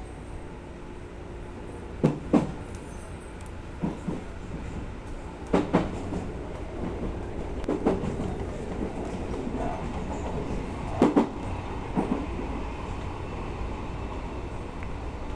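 Odakyu Odawara Line electric train running along the track, heard from inside the front cab: a steady rumble with sharp clacks in pairs, about six pairs at uneven gaps, as the wheels cross rail joints and points.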